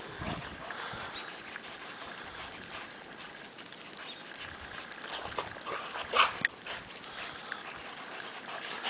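Greyhounds moving about in the snow, with a few brief, sharp sounds about five to six and a half seconds in.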